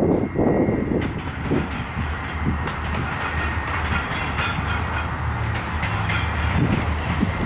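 Two EMD SD40-2 diesel-electric locomotives, each powered by a 16-cylinder two-stroke 645 engine, running steadily at the head of a freight train, with a low engine drone under the rumble of wheels on the rails.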